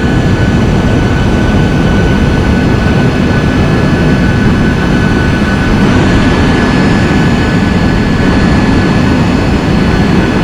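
Steady loud rush of a turbine running on a parked Boeing 737, with a thin steady whine over it.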